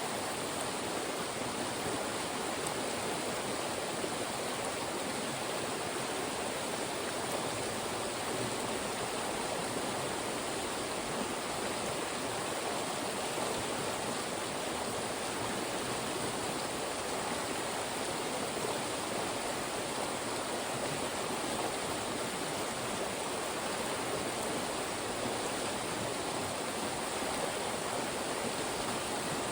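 Fast-moving mountain stream rushing through funnels of rocks, a steady, even rush of water.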